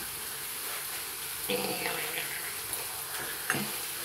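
Bacon-wrapped chicken sizzling in an electric waffle maker: a steady hiss of frying bacon fat, with a single short knock near the end.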